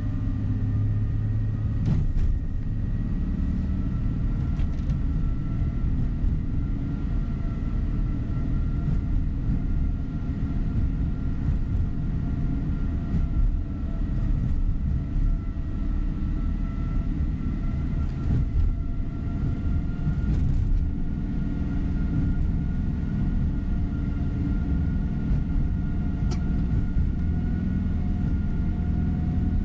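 Tour coach on the move, heard from inside the cabin: a steady low rumble of engine and road noise with a faint, slightly rising whine, and an occasional knock or rattle as the bus goes over bumps.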